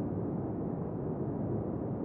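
Brown noise: a steady, deep rushing hiss with its weight in the low end and little treble, unchanging throughout.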